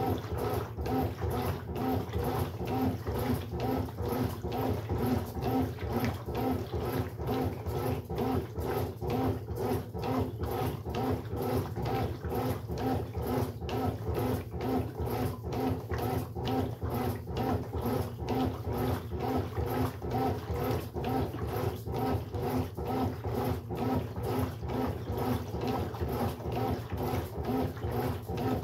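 Brastemp Sexto Sentido 8 kg top-loading washing machine agitating a load: the motor hums and the water sloshes in a steady pulse about twice a second.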